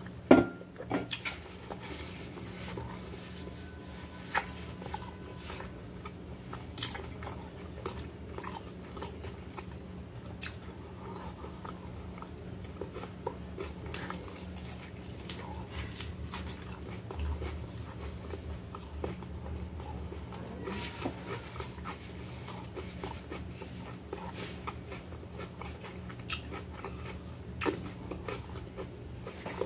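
Close-up eating sounds of a toasted salami sandwich: biting into the pressed bread and chewing, with small wet clicks and smacks scattered throughout. A sharp knock about half a second in, as a glass is set down on the table, and a low steady hum underneath.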